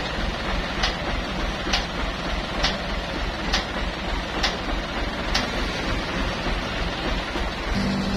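Truck engine rumbling low and steady, with a sharp tick about once a second. A steady low tone comes in near the end.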